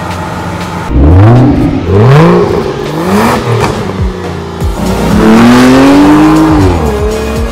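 Mazda MX-5 Miata's four-cylinder engine revving hard under acceleration. About a second in, the revs climb in several short rising pulls, then in a longer pull starting about five seconds in that drops away near the end.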